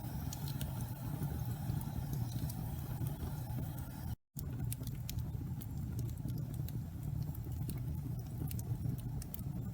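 Wood fire burning in a fireplace: a steady low rumble of flames with scattered small crackles and pops. The sound cuts out completely for a moment about four seconds in.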